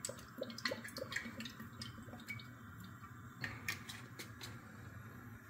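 Olive oil being poured into a pan: faint, scattered drips and small ticks.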